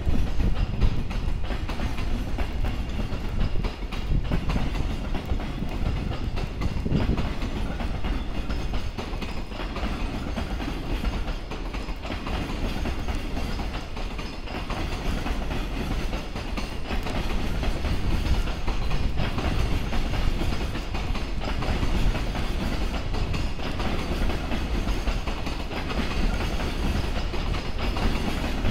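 Freight train's container flat wagons rolling past as the train pulls out of the station, wheels clicking over the rail joints. Strong wind buffets the microphone throughout.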